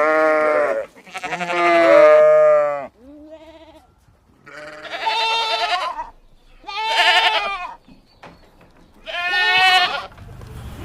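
Goat bleating, about six calls a second or two apart, each with a wavering pitch. The second call is the longest and loudest, and the third is faint.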